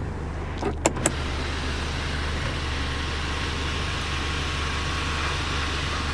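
Electric sunroof motor running with a steady whirring after two or three clicks about a second in, over a steady low hum.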